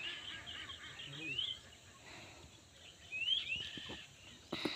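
Birds calling outdoors: several short rising chirps, a few seconds apart, with a sharp knock near the end.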